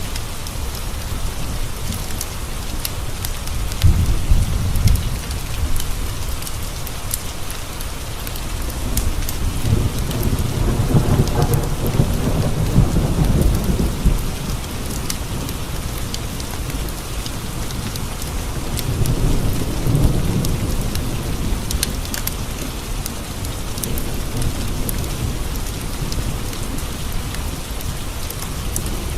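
Steady rain pattering on windowpanes, with rolls of thunder rumbling in the background: a short one about four seconds in, a longer roll near the middle, and another a few seconds later.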